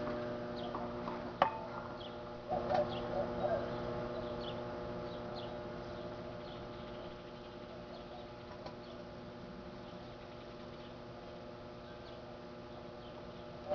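Microwave oven running with a steady electrical hum of several tones, slowly getting quieter. A pigeon coos briefly about two and a half seconds in, with faint bird chirps.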